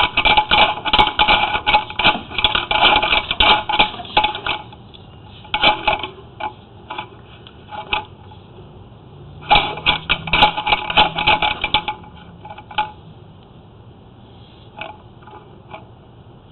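Sewer inspection camera and its push cable clattering and scraping as it is worked through a cast iron drain line. There are two bursts of quick rattling, at the start and again about ten seconds in, with scattered single knocks between and after.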